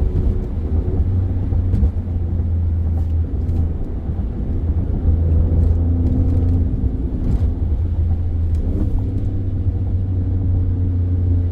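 Steady low engine and road rumble inside the cabin of an Alfa Romeo Stelvio Quadrifoglio with a twin-turbo V6, driving at an even pace without hard revving.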